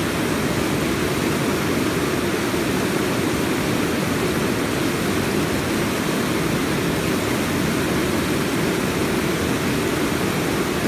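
Fast-flowing river water rushing steadily, a constant even roar.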